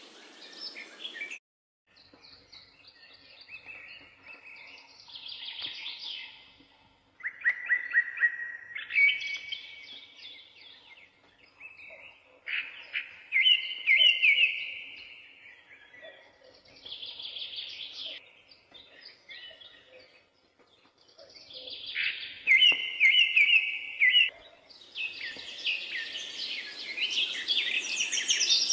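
Small birds singing: short phrases of chirps and quick trills, separated by pauses, growing louder and busier near the end.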